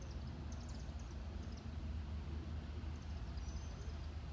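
Small birds chirping in short clusters, twice, over a steady low rumble.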